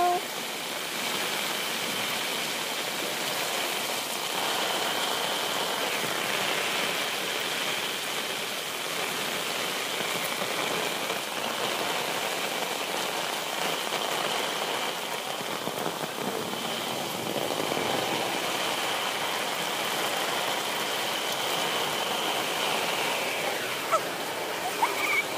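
Steady rain falling, an even hiss of water with a faint high steady tone running through much of it.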